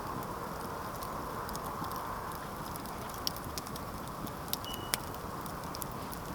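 Campfire burning with a steady hiss and scattered sharp crackles and pops, a few louder pops a little past the middle.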